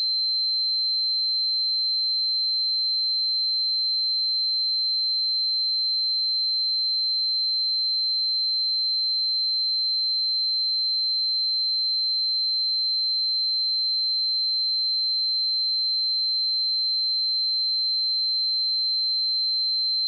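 Steady pure sine-wave test tone at 4108 Hz, a single high-pitched note held at constant level without a break.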